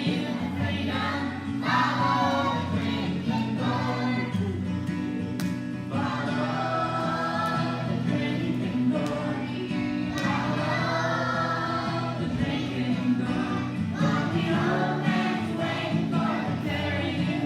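Choir singing a gospel song over steady musical accompaniment.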